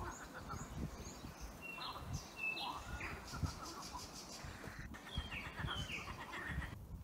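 Small birds chirping and whistling: short high chirps and flat whistled notes, a run of them about two seconds in and another about five seconds in, over low irregular thumps.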